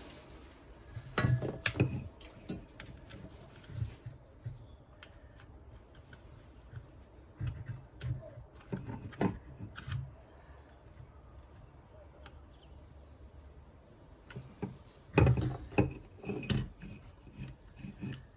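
Small flat-blade screwdriver prying and scraping at the plastic cable fitting of a car door lock, with scattered clicks and taps, loudest about a second in and again near the end.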